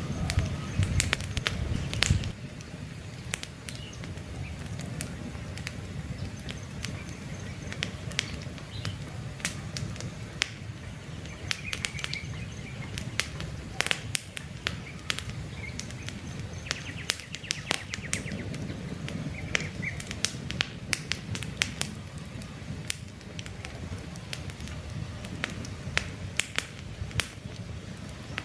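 Wood campfire crackling, with frequent sharp pops and snaps over a steady low rumble that is heavier in the first couple of seconds. A few short bird chirps are heard now and then.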